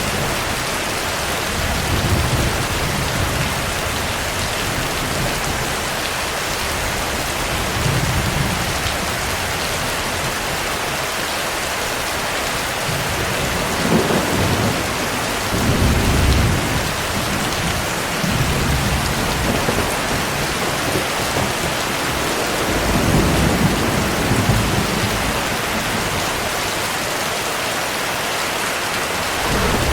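Steady heavy rain falling, with low rolls of thunder rumbling up several times beneath it.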